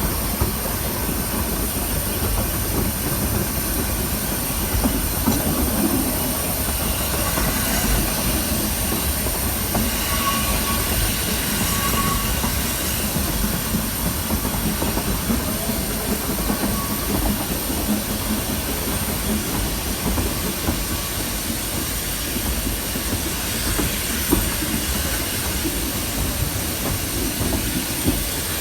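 Narrow-gauge heritage train running on the line: a steady rumble of wheels on the rails with scattered light clicks and a brief faint squeal near the middle.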